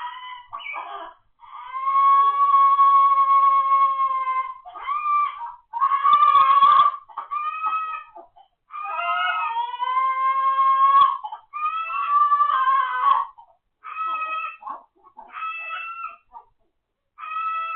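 A parrot giving a series of pitched vocal calls: two long held calls of about two to three seconds, then shorter, evenly spaced calls with brief gaps between them.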